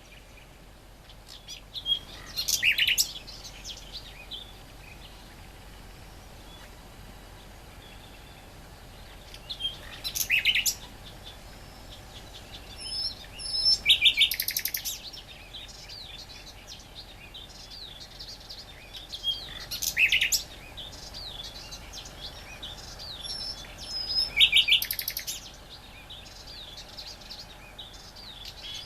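Great reed warbler singing: five short bursts of song made of rapidly repeated notes, with pauses of several seconds between them.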